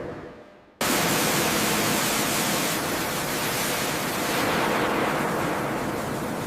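Steady, loud hiss of high-pressure spray blasting, starting abruptly about a second in, used to strip corrosion from the airframe's seams.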